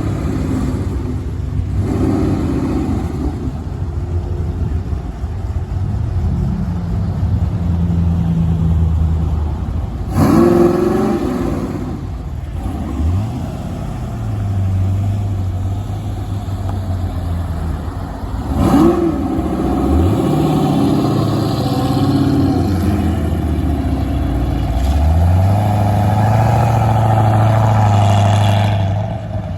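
Corvettes driving off one after another. Their engines run steadily and rev up several times as each car pulls away.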